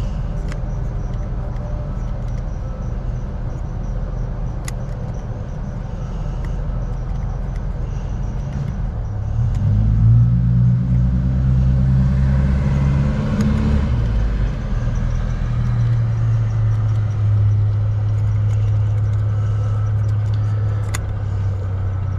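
Low rumble of a running vehicle engine. It grows louder about ten seconds in and then holds a steady hum.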